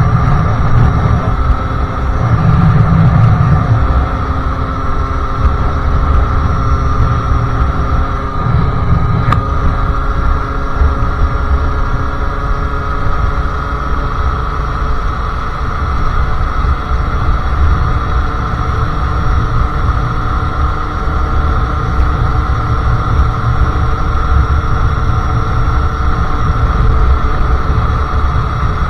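Sherco SM-R 50cc supermoto's two-stroke engine, with a KRM exhaust and Polini CP 17.5 carburettor, running on the move at fairly steady revs, over a low rumble of wind and road.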